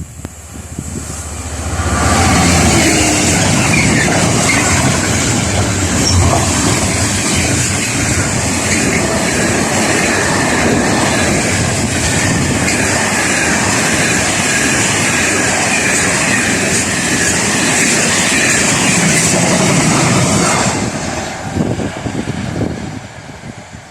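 A train passing close by on the line, its wheels clattering over the rails. It comes in loud about two seconds in, holds steady for some nineteen seconds and dies away near the end.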